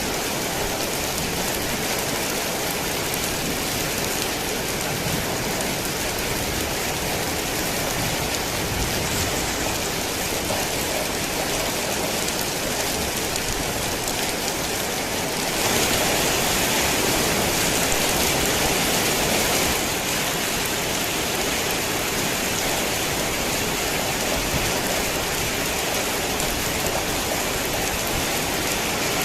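Heavy rain falling steadily as an even hiss, swelling louder and hissier for a few seconds about halfway through before settling back.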